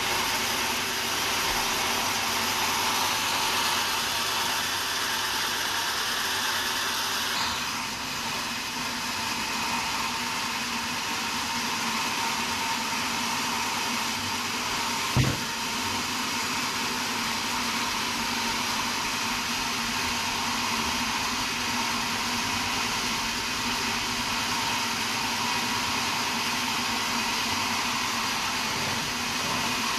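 Sawmill saw running steadily, a continuous mechanical noise with faint steady tones, with one sharp knock about fifteen seconds in.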